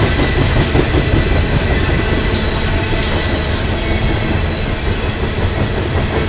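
Loaded coal hopper cars of a freight train rolling past: a steady rumble and clatter of steel wheels on rail, with a brief high-pitched squeal from the wheels about two and a half seconds in.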